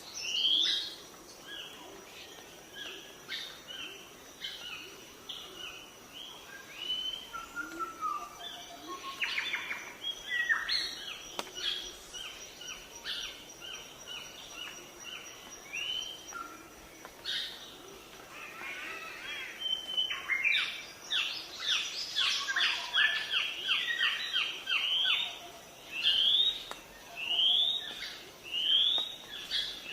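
Several birds calling and singing together: a short rising whistled note repeats about once a second near the start and again near the end, and in the middle come runs of rapid, overlapping chirps.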